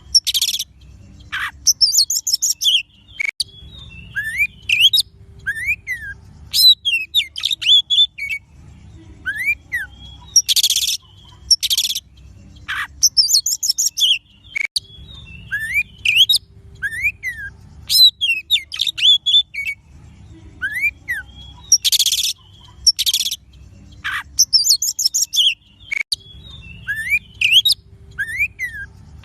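Oriental magpie-robin song: clear rising and falling whistles mixed with harsh rasping notes and buzzy trills. The same run of phrases comes round again about every eleven seconds, as in a looped recording.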